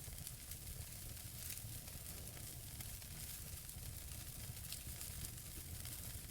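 Wood fire burning in a fireplace: a soft, steady hiss with scattered small crackles and pops from the burning logs, over a low steady rumble.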